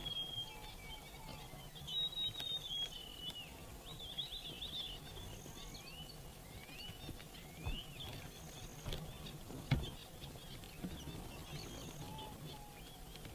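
Small finches chirping and calling throughout, with short rising and falling chirps and a few held whistled notes, broken by a few sharp knocks, the loudest about ten seconds in.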